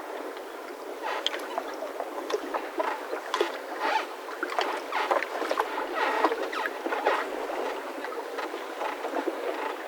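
Boat mooring ropes in a yacht harbour squeaking and creaking in short, irregular squeaks with no steady rhythm.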